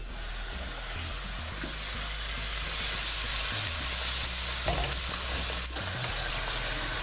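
Curry gravy sizzling in a frying pan: a steady hiss that grows a little louder about a second in.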